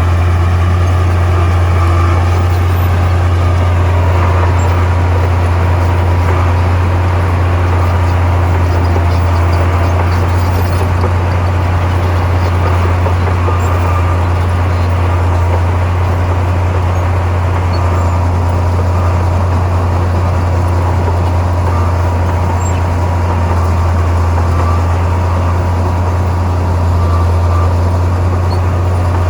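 Heavy diesel engine of earthmoving machinery running steadily under load, a deep even drone with a faint steady higher whine over it.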